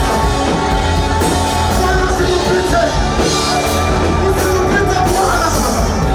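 Amplified live worship music with singing, a full band over a steady, strong bass.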